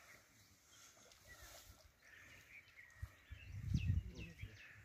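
Small birds chirping in short falling calls, with a low rumble on the microphone about three to four seconds in.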